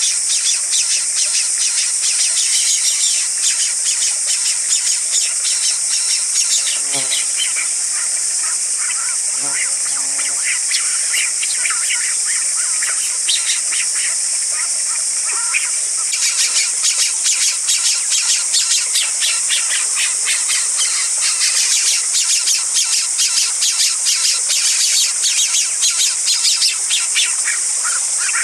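A steady, high-pitched drone of forest insects, with a bird cheeping in rapid, repeated chirps over it. The chirps are busiest at the start and again from about halfway on.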